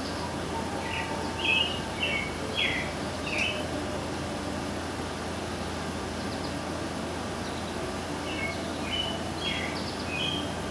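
Bird chirping: a quick run of short chirps about a second in and another near the end, over a steady background hum.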